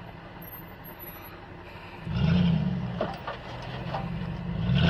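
2007 Ram 1500's 5.7 L Hemi V8 revs up hard about two seconds in as the truck climbs through a steep ravine under load, with a couple of sharp knocks from the truck about a second later. It swells again near the end.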